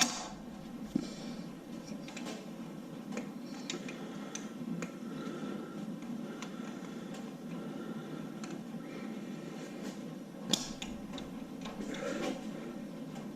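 Scattered light clicks and taps of tools and small parts being worked on an LS V8 engine under teardown, over a steady low hum. Sharper clicks come at the start, about a second in and about ten and a half seconds in.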